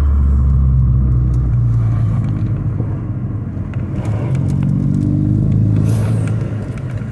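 2015 Ford Focus ST's turbocharged 2.0-litre four-cylinder engine and exhaust pulling under throttle, then easing off, rising again, and lifting off near the end. A brief hiss as the throttle closes is the aftermarket NGR Type-S blow-off valve venting, faint under the exhaust.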